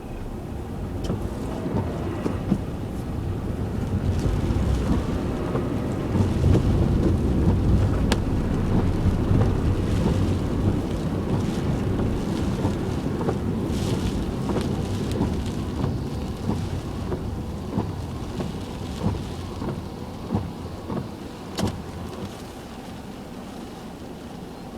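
Heavy typhoon rain falling on a car while it is driven, a dense low rumble that swells over the first several seconds and eases off slowly toward the end, with a few sharp clicks.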